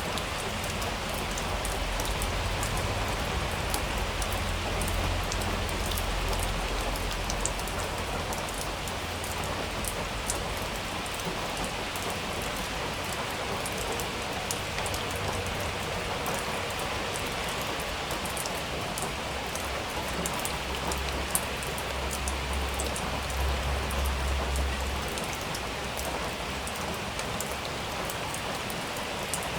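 Steady rain falling, with individual drops tapping close by. A low thunder rumble comes in near the start and again about two-thirds of the way through.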